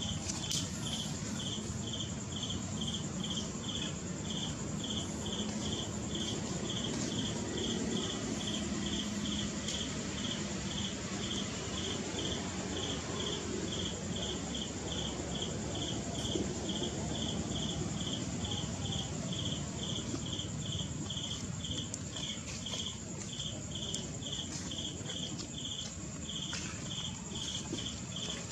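Crickets chirping in a steady, even rhythm of about two chirps a second, over a continuous high-pitched insect trill and a low background rumble.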